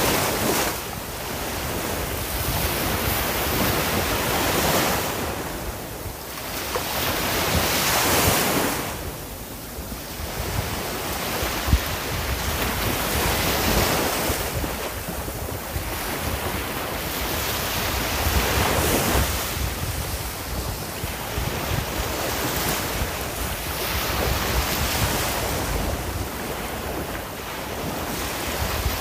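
Sea waves breaking and washing on a shore, a continuous surf that swells and falls back every few seconds, with a low wind rumble on the microphone.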